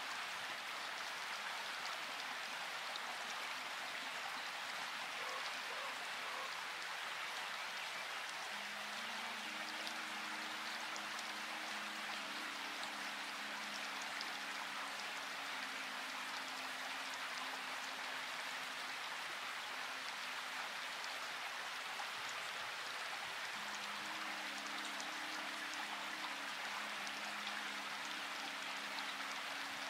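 Steady rain falling, an even hiss of drops. Faint low humming tones come in about a third of the way through, stop for a few seconds, and return near the end.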